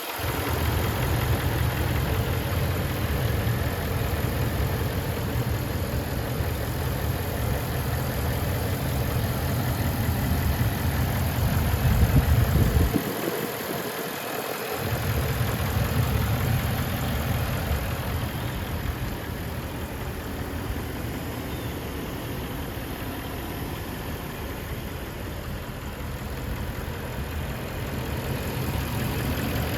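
A 1991 Infiniti Q45's 4.5-litre V8 idling with a steady low rumble. It swells a little before the middle, cuts out for about two seconds, then goes on slightly quieter.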